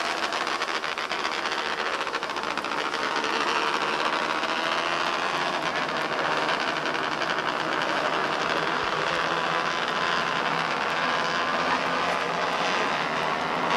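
Engines of a field of small race cars running together on a slow pace lap, a steady buzzing drone with no single car standing out.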